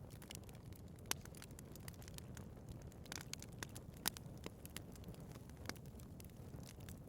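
Wood fire burning in a fireplace: a low steady rumble of flames with frequent sharp crackles and pops, two of them louder, about a second in and about four seconds in.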